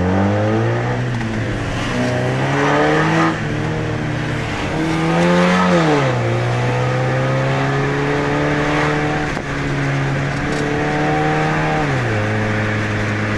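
Car engine accelerating through the gears: its pitch rises, drops at a shift about three seconds in, rises again and drops at another shift around six seconds, then holds nearly steady before falling once more near the end.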